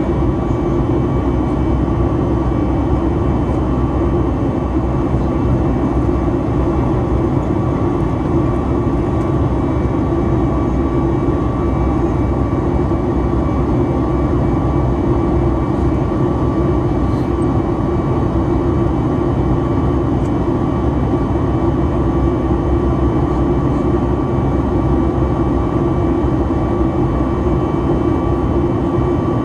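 Steady jet cabin noise inside a Boeing 737-9 MAX in flight: a constant rush of engine and airflow with a low drone and a few fixed whining tones from its CFM LEAP-1B engines.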